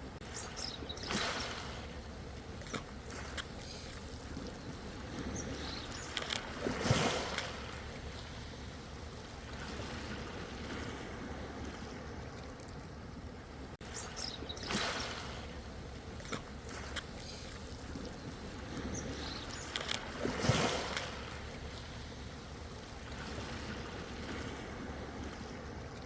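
Ocean surf: a steady wash of waves on the shore, with louder breaking waves now and then, the strongest about seven and twenty seconds in.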